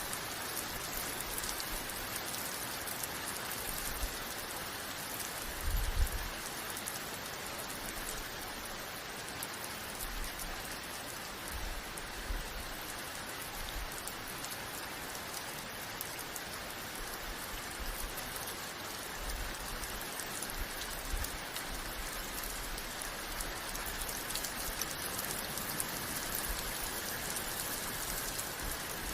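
Steady rain falling, an even hiss of drops on surfaces, with a brief low thump about six seconds in.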